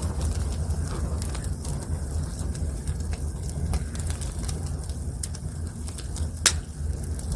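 Wood fire crackling, with scattered sharp pops and one loud crack about six and a half seconds in, over a steady low rumble.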